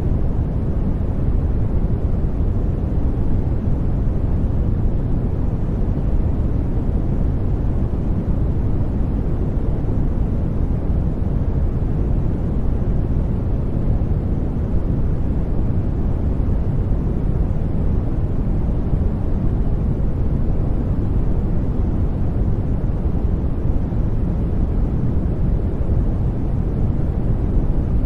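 Steady sleep noise track, a smooth hiss heaviest in the low end and thinning toward the highs, with no change in level.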